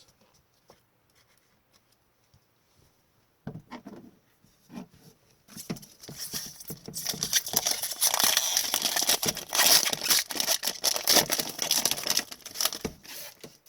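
Foil trading-card pack wrapper being torn open and crinkled, a dense crackling that starts about five seconds in and lasts several seconds, after a few small handling noises.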